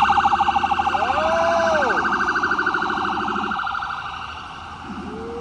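Emergency vehicle siren sounding a rapid pulsing warble, with short rising-and-falling sweeps, fading away about three to four seconds in; a single sweep comes back near the end.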